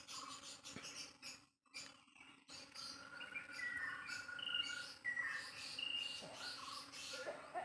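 Birds chirping and singing: a run of clear whistled notes and short sliding calls through the middle of the stretch.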